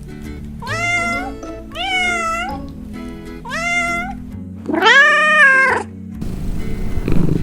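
Kittens meowing: three similar meows about a second apart, each rising and then falling in pitch, then a longer, louder meow. Near the end a cat's low, rumbling purring begins.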